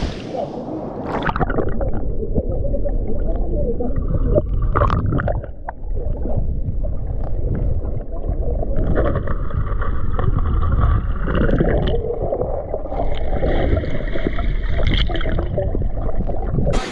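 Muffled underwater sound from a camera held under the stream's water: a loud, dull gurgling rumble with a few knocks and faint muffled tones, the high end cut off while submerged.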